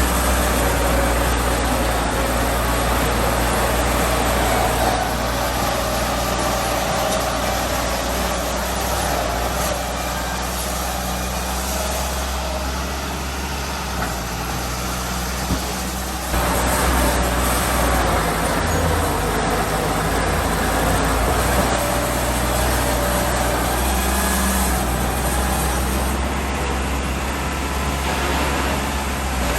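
Diesel engine of heavy earthmoving machinery running steadily. It gets abruptly louder about halfway through.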